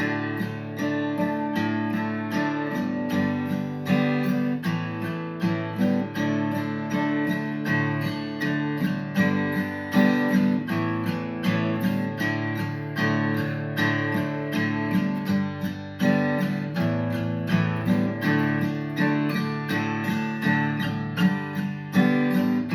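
Acoustic guitar strummed in a steady rhythm: an instrumental passage of a country-rock style song, with no singing.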